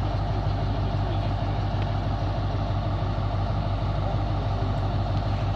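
Diesel train engine idling: a steady low drone that holds even, with no change in pitch.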